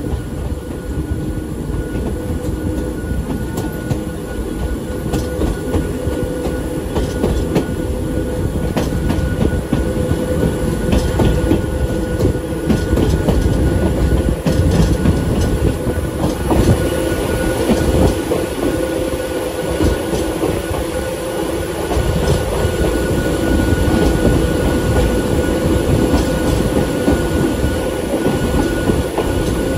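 Hakone Tozan Railway's oldest electric car running on the mountain line, heard from inside the car: a steady low rumble with a continuous whine and scattered clacks from the rails.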